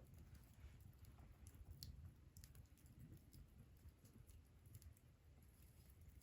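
Wood fire crackling faintly, with sparse, irregular small pops and clicks over a low rumble.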